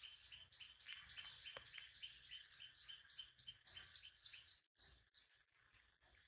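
Faint, rapid high chirping, about three chirps a second in a steady run, that stops about three-quarters of the way through, like a small bird calling.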